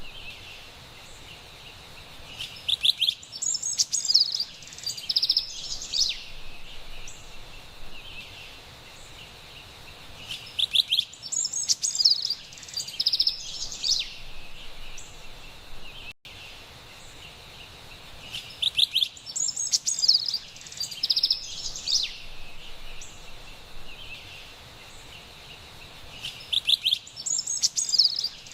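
Carolina wren singing in four bursts of quick repeated phrases, roughly every eight seconds, over a steady high hiss of forest ambience.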